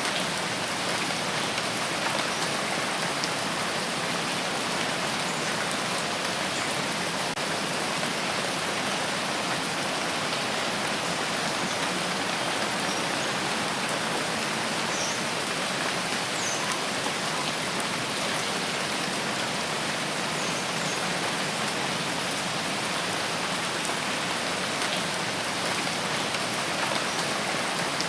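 Steady rainfall, an even hiss of rain with occasional individual drops ticking out.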